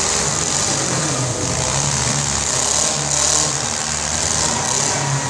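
Demolition derby car engines running steadily, with no crash impacts standing out.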